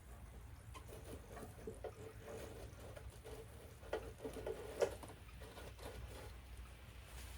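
Wood fire crackling under the grill: faint, irregular pops and snaps, the sharpest about five seconds in, over a soft patter of rain.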